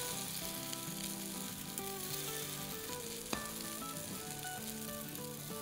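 Stuffed naan pockets sizzling softly in a little oil in a nonstick pan as they are turned over with a silicone spatula, with one sharp tap a little past halfway. Soft background music with sustained notes plays underneath.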